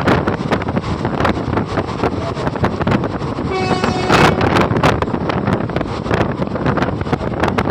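Train running on the line below, a loud continuous rumble with rapid knocks, and a short horn blast about halfway through.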